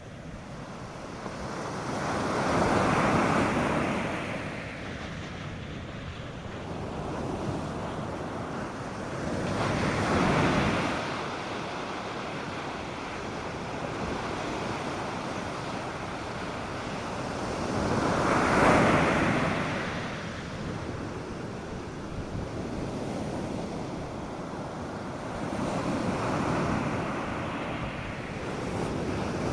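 North Sea surf breaking on a sandy beach. Four waves swell up and fade away, about eight seconds apart, over a steady wash of water.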